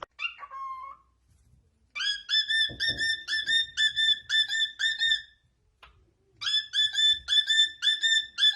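A pet parrot whistling: a short falling note near the start, then two runs of quick, even, high chirping notes, about three or four a second, with a pause of about a second between the runs.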